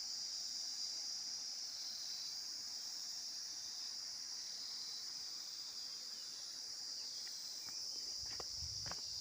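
Steady high-pitched chorus of insects shrilling, unbroken throughout. Near the end a few short knocks and thumps come in, like footsteps.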